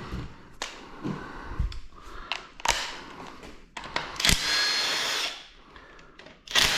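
Metal clinks and knocks of tools and engine parts being handled, then a power tool runs for about a second, and starts again near the end.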